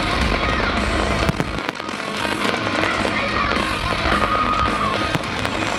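Fireworks going off, sharp bangs and crackles over a loud music soundtrack from the show's speakers.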